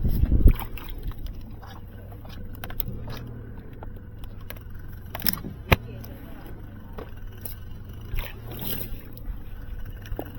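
Knocks, clicks and scraping from fishing gear being handled on a small boat, over a steady low hum. There is a heavy thump right at the start and a sharp click a little over halfway through.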